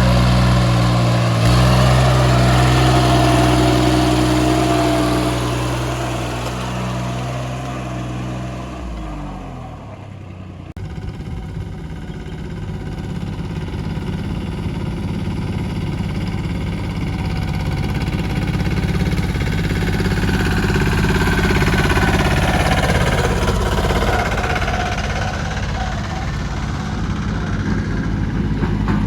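Compact tractor engine running steadily. It fades about nine seconds in, then an engine builds back up and keeps running.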